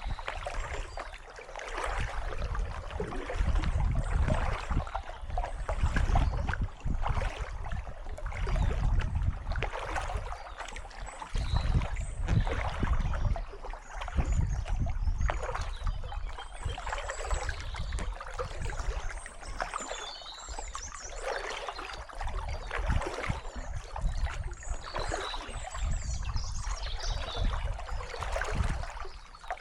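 Kayak paddle strokes dipping and splashing, with water trickling off the blades, in a repeated rhythm of rising and falling surges.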